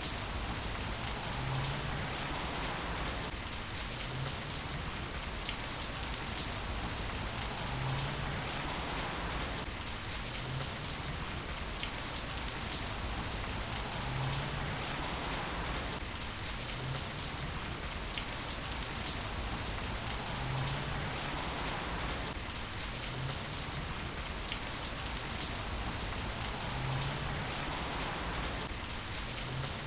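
Heavy rain falling steadily on surfaces, a constant hiss with occasional individual drops tapping.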